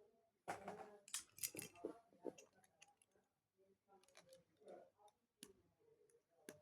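Plastic Lego pieces clicking and clattering as they are handled and snapped together: a busy run of small clicks in the first couple of seconds, then scattered single clicks.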